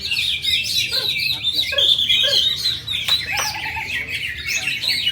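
Several caged greater green leafbirds (cucak ijo) singing at once: a dense, unbroken chorus of quick overlapping chirps and whistles, with a few lower sliding notes mixed in.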